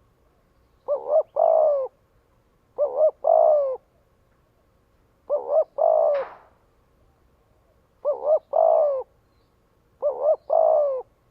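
Spotted dove cooing its call five times, about two seconds apart: each phrase is two short quick coos followed by a longer, falling coo. A brief rustling noise comes about halfway through.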